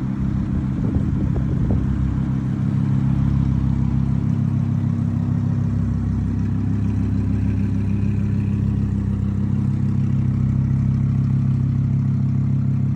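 Audi R8 V10 Plus's 5.2-litre V10 running steadily through a Quicksilver aftermarket exhaust, a deep even drone with no clear revs.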